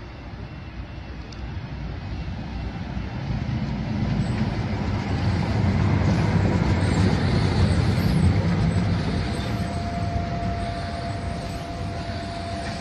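Tyne and Wear Metrocar train running past at low speed. The rumble of wheels on rails builds to a peak about halfway through and then eases off, with faint high squeals above it. A steady whine joins in near the end.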